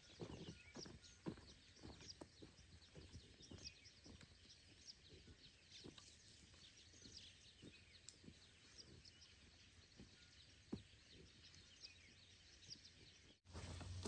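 Faint outdoor ambience of distant birds chirping, many short high calls throughout, with soft footsteps on a dirt path that fade out over the first few seconds.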